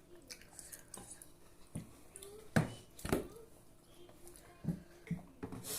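Mealtime table sounds: a few short knocks and clicks of dishes and a glass being handled, the loudest two about two and a half and three seconds in.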